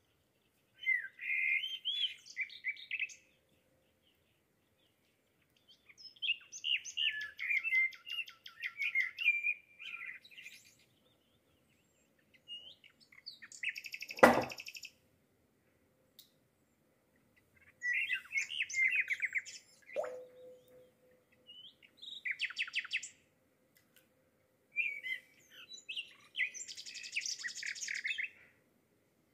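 A songbird singing in bursts of a few seconds each: quick chirps and trills with short pauses between. About fourteen seconds in comes a single sharp knock, the loudest sound. About twenty seconds in, a lighter tap rings on briefly.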